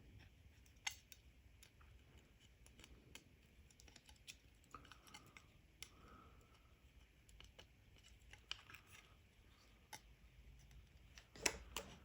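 Faint, scattered small clicks and short scrapes of a razor blade working old polarizing film and adhesive off an LCD panel, with a sharper pair of clicks near the end.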